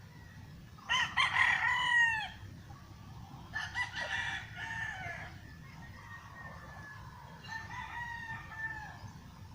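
Roosters crowing three times: a loud crow about a second in, then two fainter crows answering, the last near the end.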